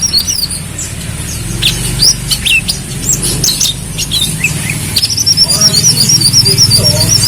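Kolibri kelapa sunbird singing: scattered sharp high chirps, then from about five seconds in a fast, high warbling trill. A steady low hum runs underneath.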